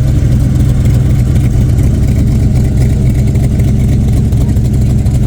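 A car engine running steadily and loud, with a fast even pulse of its firing.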